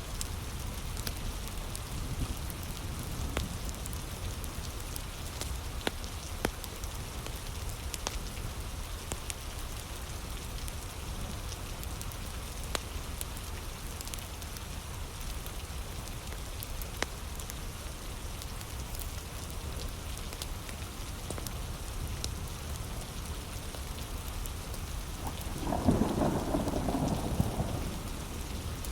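Heavy rain falling steadily, with scattered sharp crackles from a wood fire. A louder low roll of thunder comes near the end.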